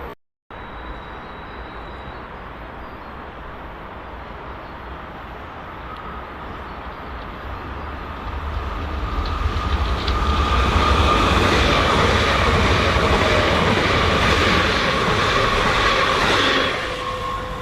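A train running past at close range: the rumble of wheels on rail grows over several seconds and holds loud for about six seconds with steady high-pitched tones in it, then falls away sharply near the end.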